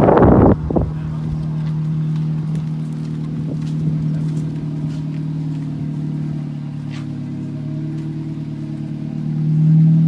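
Nissan Micra K11's engine running steadily at low revs as the car is driven slowly, getting a little louder near the end. A gust of wind on the microphone covers the first half second.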